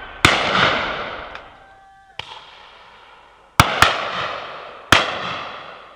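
Shotgun reports: five shots, one of them fainter and one a quick pair about three and a half seconds in, each followed by a long rolling echo that dies away.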